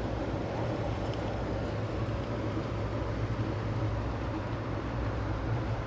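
Steady low rumble and hum of a passenger train rolling along the track, heard from inside the car.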